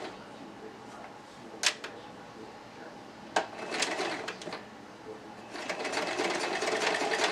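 Sewing machine: two sharp clicks and a short burst of stitching, then from a little past halfway it settles into rapid, steady stitching as hair weft tracks are sewn down onto a wig cap.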